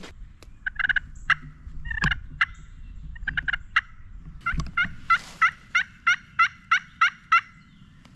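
Turkey yelping: a few quick clusters of notes, then a run of about eight evenly spaced yelps, about three a second.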